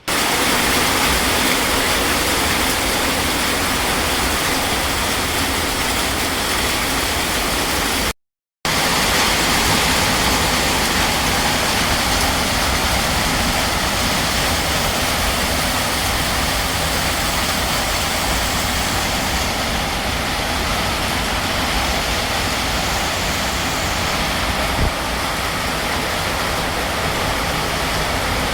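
Heavy rain pouring down in a steady, loud downpour, cutting out briefly about eight seconds in.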